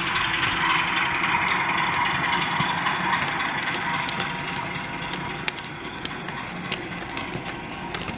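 OO gauge model train running on the layout, its DCC sound decoder playing locomotive engine noise. The sound grows quieter about four seconds in, and scattered sharp clicks follow.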